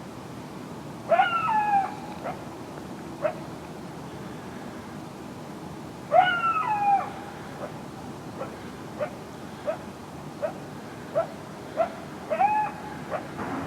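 Coyotes barking: three longer bark-howls, each rising sharply then falling away, about five seconds apart, with short single barks between them.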